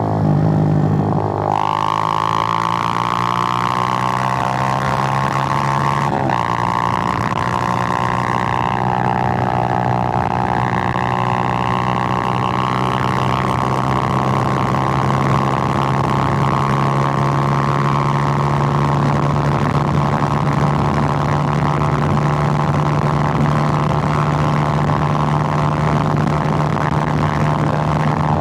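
Suzuki GN125's single-cylinder four-stroke engine running on the road, its droning note changing pitch sharply twice in the first several seconds as the revs change, then holding at a steady cruise.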